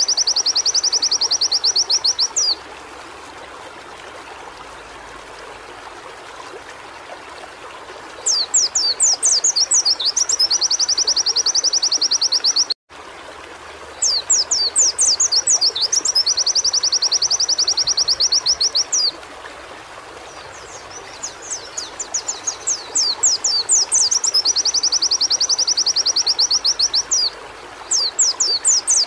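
Pleci (white-eye) song in repeated bursts: each a quick run of high descending notes that runs straight into a fast, even trill, with pauses of a few seconds between bursts, over a steady background hiss. The sound cuts out for an instant about halfway through.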